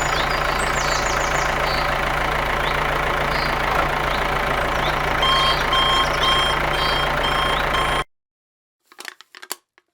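A machine running steadily with a low hum. From about five seconds in, short beeps sound about twice a second. It cuts off suddenly at about eight seconds, and a few faint clicks follow.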